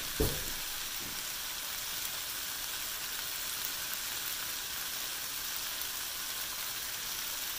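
Fried tofu cubes in a sauce sizzling steadily in a wok, as a light even hiss. There is a dull thump just after the start and a fainter one about a second in.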